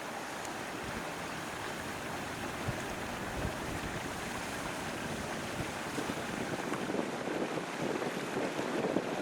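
A steady rushing noise, like wind or running water, that grows rougher and more uneven near the end.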